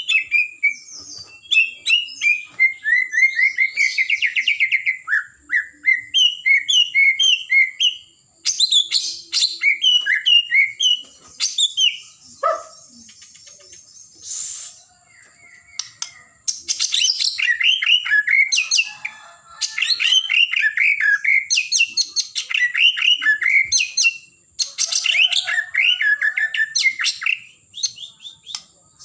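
White-rumped shama (murai batu) singing loudly: long runs of rapid, varied whistled and chattering phrases, broken by short pauses and one longer pause about halfway through. A faint steady high-pitched tone sits underneath.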